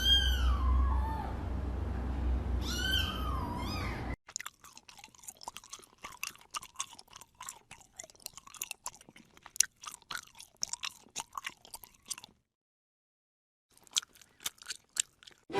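A cat meows twice over a steady low hum. After a sudden cut about four seconds in, a cat chews crunchy food in quick, irregular crunches. The crunching stops for about a second and a half, then resumes near the end.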